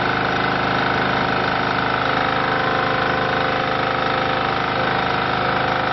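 Diesel engine of a hydraulic compressed earth block machine running steadily, a constant drone with no changes in speed.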